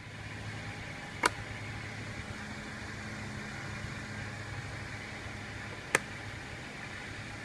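A car idling with a steady low hum, broken twice by a sharp click, about a second in and again near six seconds.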